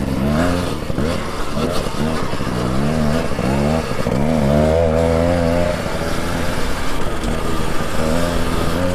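Beta gas dirt bike engine idling and being revved in short blips, its pitch rising and falling over and over.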